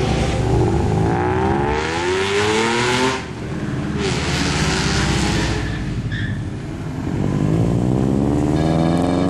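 Three cars accelerating past one after another, each engine revving with a rising pitch as it pulls away. Music comes in faintly near the end.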